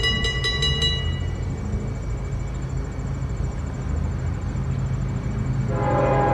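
Locomotive horn sounding a chord, cutting off about a second in, over the steady low rumble of a passing train; the horn sounds again near the end.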